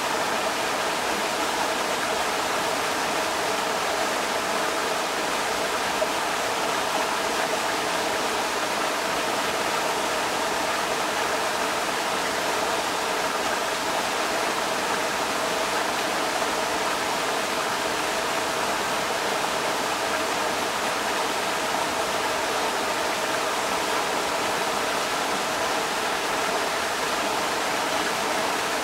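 Creek water rushing steadily over rocks, a constant even hiss and burble with no breaks.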